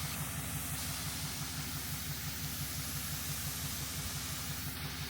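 A tow truck's diesel engine running steadily, with a fast, even low beat under a constant hiss.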